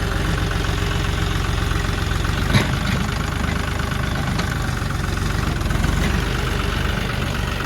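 John Deere tractor's diesel engine idling steadily, with one sharp knock about two and a half seconds in.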